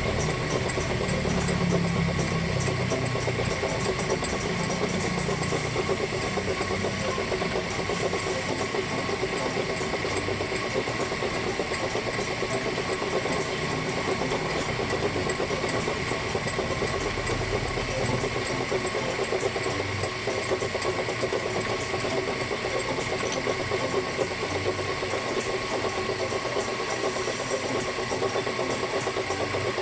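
A machine running steadily, with a fast even rhythm and several steady whining tones over it.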